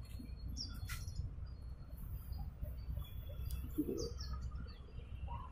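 Birds chirping: a few short, high, spaced-out notes over a steady low rumble, with a single click about a second in.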